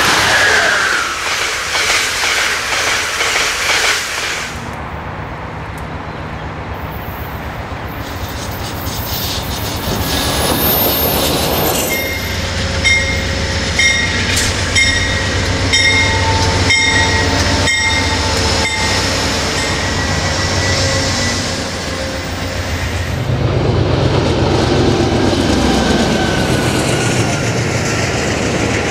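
Trains passing close by on the track: a steady rush of wheels on rail, with sharp clacks as the wheels cross rail joints. In the middle, a high steady squeal from the wheels rings over the clacking.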